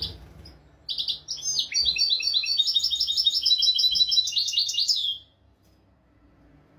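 European goldfinch singing: a few short notes at the start, then from about a second in a fast twittering phrase of many quick, varied high notes lasting about four seconds, which stops abruptly.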